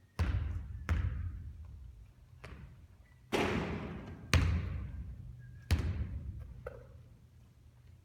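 A basketball thudding and bouncing during shooting practice. There are about seven sharp impacts at uneven intervals, each with an echoing ring-out, and the loudest comes about four seconds in.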